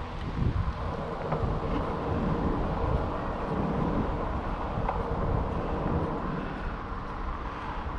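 Wind buffeting the microphone of a camera mounted on a moving electric bike, a steady gusty rumble with the ride's vehicle noise underneath.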